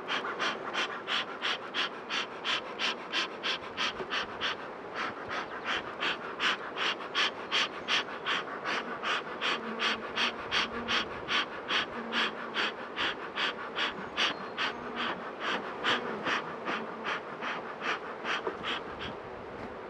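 Bee smoker bellows pumped over and over, about two or three puffs of air a second, driving honeybees down into the hive; the bees hum faintly underneath.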